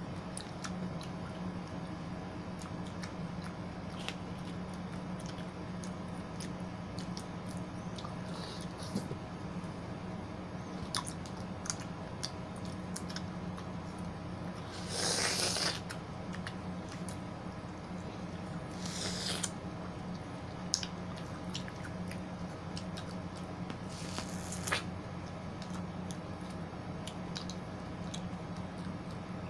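Wet chewing and biting of juicy fruit (watermelon, melon and pineapple), with many small clicks and a few short noisy bursts about halfway, about two-thirds and about four-fifths through. A steady low hum runs underneath.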